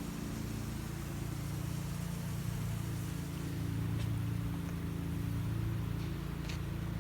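Steady low mechanical hum with a couple of faint clicks.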